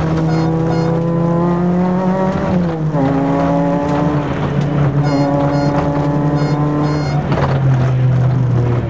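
Renault Clio Williams rally car's 2.0-litre four-cylinder engine heard from inside the cabin, pulling hard with its pitch climbing. The pitch drops about two and a half seconds in as it changes up, climbs again, and the note breaks up near the end.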